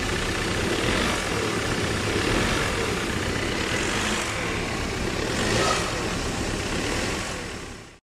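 BMW B48 2.0-litre turbocharged four-cylinder engine idling steadily, heard close up in the engine bay, on engine mounts found completely worn out.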